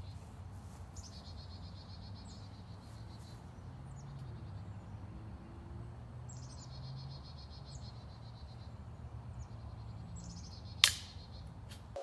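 A songbird singing a rapid, high trill about a second long, repeated every few seconds over a steady low background hum. A single sharp click sounds near the end.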